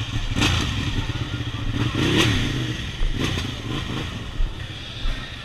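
A motorcycle engine running, revved up and back down once about two seconds in.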